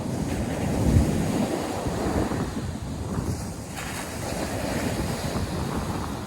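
North Sea surf breaking and washing on the beach, with wind buffeting the microphone, a low gust about a second in.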